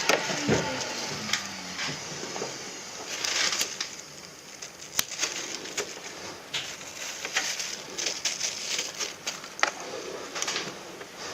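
A motor winds down with falling pitch in the first moment, then scattered sharp clicks, taps and light knocks of hard objects being handled.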